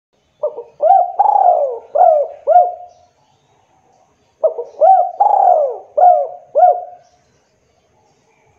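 Spotted dove cooing: two phrases of about five notes each, with the second note of each phrase drawn out and falling. The phrases are about a second and a half apart.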